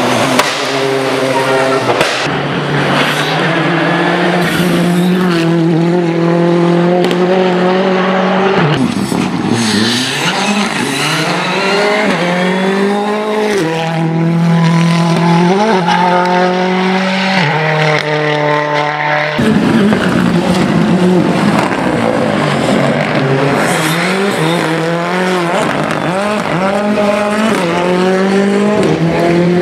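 Rally cars at full effort on a stage, engines revving hard, the pitch climbing and then dropping at each gear change, with tyres squealing at times. Several passes follow one after another, each ending abruptly.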